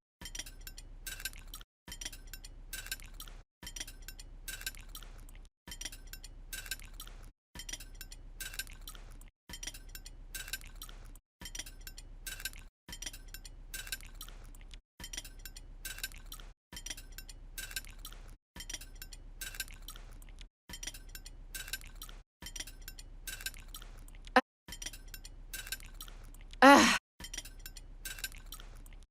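A steady run of light clicks, about two a second, broken by short silent gaps every couple of seconds. Near the end come one sharp click and then a loud, brief sound whose pitch wavers.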